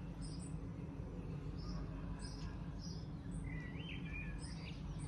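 Small songbirds chirping: short high chirps repeating throughout, with a brief warbled phrase a little past the middle, over a steady low background rumble.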